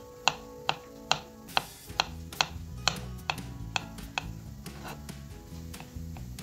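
Kitchen knife chopping zucchini on a wooden cutting board: sharp, evenly spaced taps about two a second, growing fainter and sparser after about four seconds, over background music.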